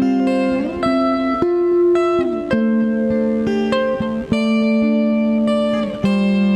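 Instrumental guitar music: plucked notes and chords that ring on, with a note sliding up about a second in and another sliding down a little later.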